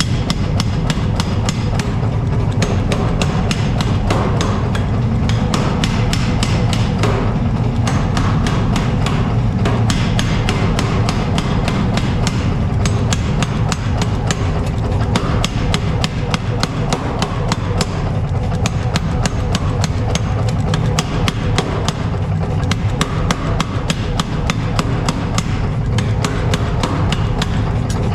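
Rapid, even hammer strikes on steel, about five a second, continuing without a break, with background music.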